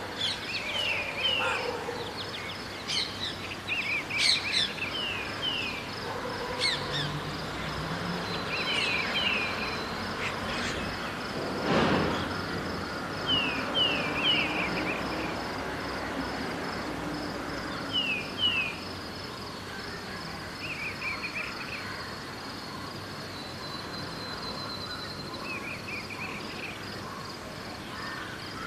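Birds chirping in short falling notes, two or three at a time and repeated every few seconds. Under them run a steady high insect trill and the faint wash of city ambience. About twelve seconds in there is one brief louder noise.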